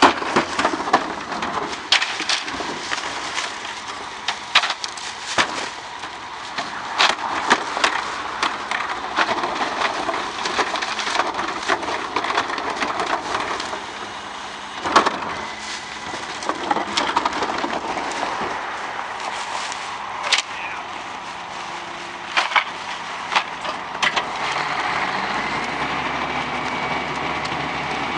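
Bulky renovation waste, largely wood, cracking, snapping and splintering as the Heil 5000 garbage truck's compactor crushes it, with many sharp cracks throughout. Near the end a steady whine rises and then holds as the truck's machinery runs on.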